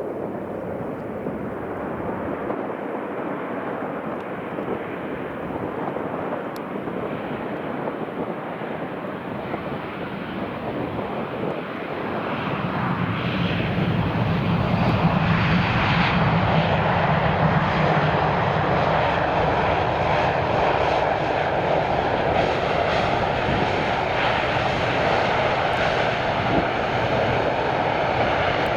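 Airliner engines, a loud rushing noise that builds up about halfway through and then holds steady and strong.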